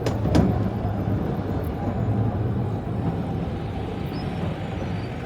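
A vehicle running with a steady low rumble, with two sharp clicks in the first half-second.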